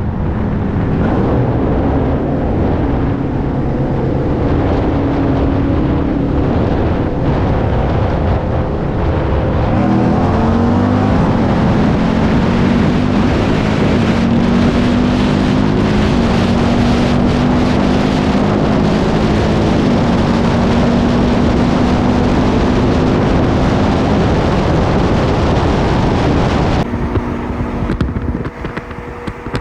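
V8 car accelerating hard through several gear changes, the engine note stepping to a new pitch at each shift, under heavy wind and road noise. The sound drops off sharply near the end.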